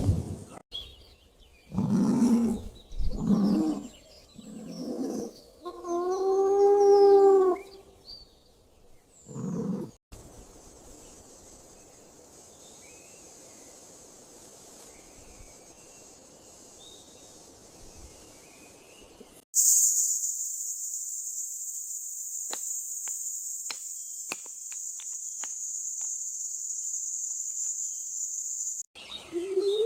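A run of animal calls, one of them a longer pitched, wavering call about six seconds in. Then a faint quiet stretch, and about two-thirds through, a steady high-pitched insect buzz that starts and stops abruptly.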